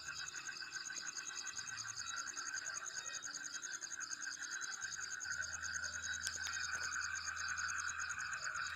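Steady chorus of calling insects, a fast pulsing trill at several pitches layered together, with a single faint click about six seconds in.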